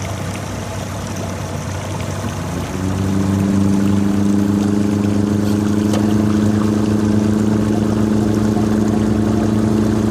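Boat engine running at low speed, then throttled up about two and a half seconds in, rising in pitch and holding a louder, steady drone.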